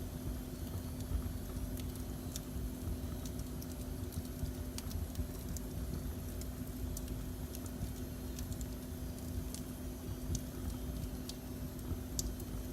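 Wood fire in a fireplace crackling, with irregular sharp little pops over a steady low rumble and hum.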